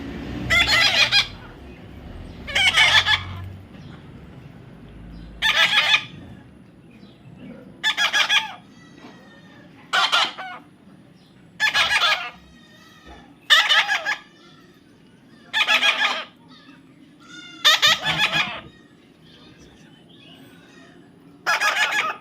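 Young parrot squawking: about ten loud, harsh calls, one roughly every two seconds, with faint chirps in between.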